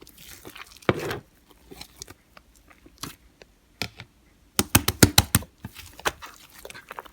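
Lime-green slime squished and poked by hand, giving sticky clicks and pops, with a quick run of sharp pops about two-thirds of the way through.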